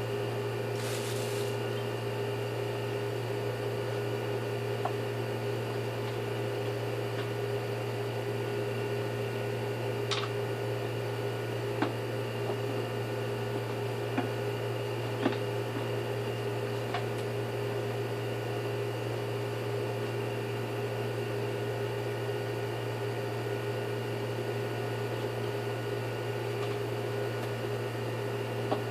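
Steady electrical machine hum with a low drone and a fixed higher tone, broken by a few light clicks about halfway through.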